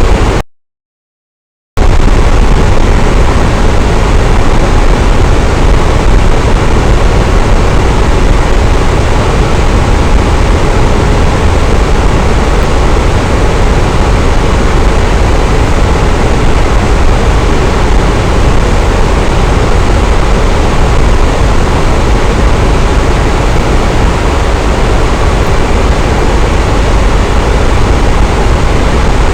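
Electric fan running at a steady speed, a constant rushing noise with a deep low rumble. About half a second in the sound cuts out completely for just over a second, then returns unchanged.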